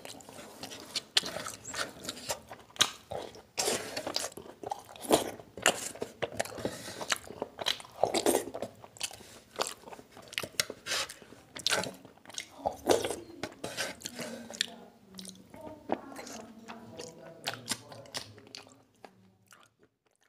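Chewing and lip-smacking of chicken liver curry eaten by hand, with many sharp wet mouth clicks, dying away near the end.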